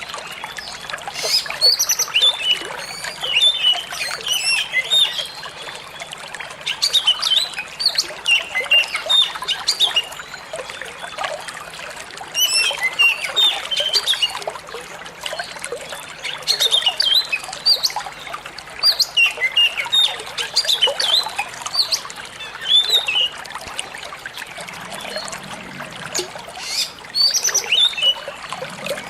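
Oriental magpie-robin (kacer) singing in bursts of quick chirping phrases a few seconds long, with short pauses between them, over steady trickling water.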